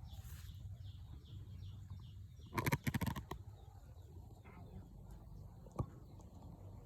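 A small bird chirping, short high calls repeated about three times a second, dying away after the first second or so. About two and a half seconds in comes a brief loud burst of rustling, and a single click near the end.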